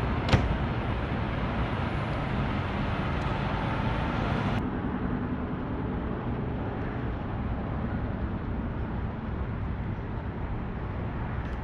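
Semi truck running down the road, a steady low engine and road rumble heard from inside the cab, with one sharp click just after the start; the hiss above the rumble drops away abruptly about four and a half seconds in.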